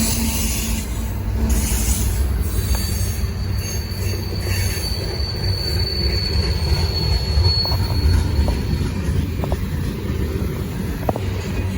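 Freight train rolling past: a steady low rumble of wheels on rail, with a thin, high wheel squeal from about two and a half seconds to nine seconds in.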